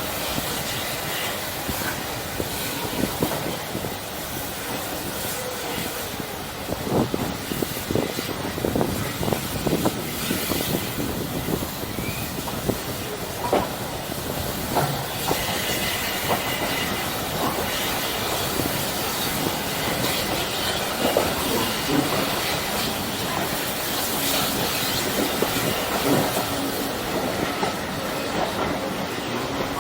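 Heritage steam railway train running along the track: a steady rumble with irregular clicks and knocks from the wheels over the rails, and a faint high squeal here and there.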